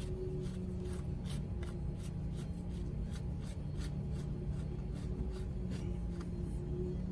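Quick, repeated scraping or rubbing strokes, about three a second, over a steady low hum.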